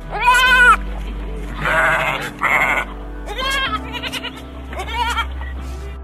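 Bleating: three short calls that rise and fall in pitch, the loudest at the start, and two harsher, rougher cries around two seconds in, over steady background music.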